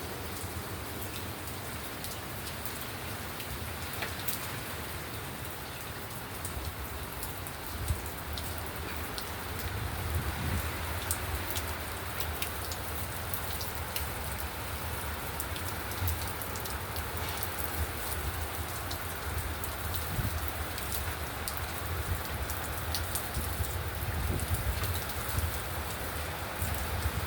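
Steady rain falling, with individual drops ticking sharply on a surface; it grows a little heavier about ten seconds in.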